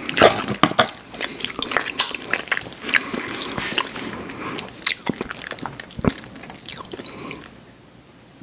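Close-up mouth sounds of biting and chewing crunchy cookies: many sharp crunches and smacks that die away about seven seconds in.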